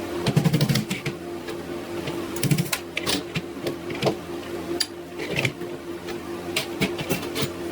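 Short runs of rapid mechanical clicking and ticking, separated by single clicks, over a steady low hum.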